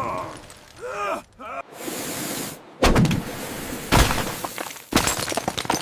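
Cartoon crash sound effects: a short hiss, then three heavy crashes about a second apart, the last trailing into a rattle of clattering, breaking debris.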